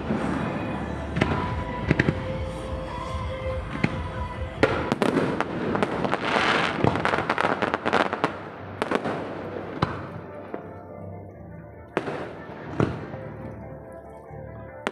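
Fireworks display: aerial shells bursting in a string of booms and crackles, thickest between about five and nine seconds in, thinning to a few single booms near the end.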